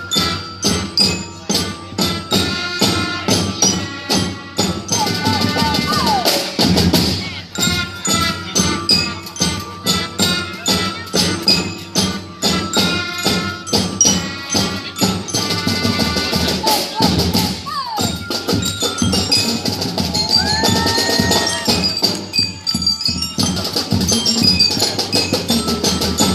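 Marching band playing, drums keeping a steady beat under pitched struck notes.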